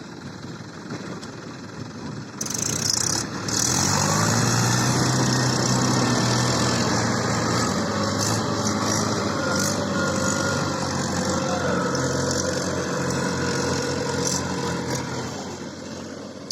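Diesel tractor engine revving up sharply about three seconds in, then running hard at high, steady revs before easing off near the end.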